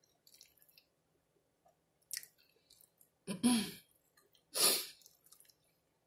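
Close-up chewing of a crisp baked chicken-and-cheese taco cup: small crackles and a sharp crunch, then two louder breathy mouth noises a little past halfway.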